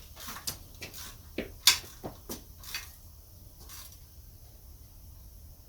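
A handful of light clicks and knocks from objects being handled during bicycle repair work, irregular and spread over the first three seconds, the sharpest about a second and a half in, then quiet.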